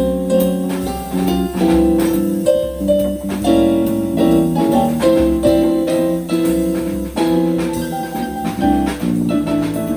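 Small live jazz combo playing an instrumental passage without singing, with a drum kit keeping time under melodic lines.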